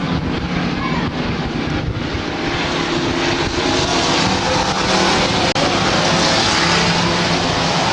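Several dirt-track stock trucks' engines running together in a race, a loud, steady mix of overlapping engine notes. The sound cuts out for an instant about five and a half seconds in.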